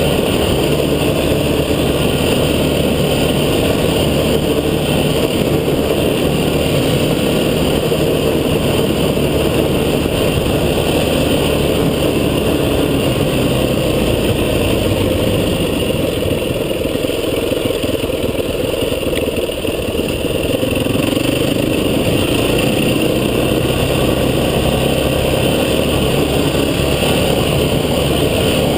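An off-road vehicle's engine running steadily while under way, easing briefly a little past the middle.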